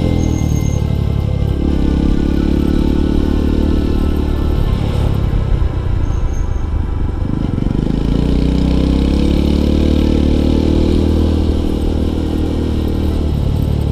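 Small motorcycle engine running under way, heard from the rider's seat. Its note dips and picks up again about a second in, goes uneven around the middle, then rises gently through the second half as the bike accelerates.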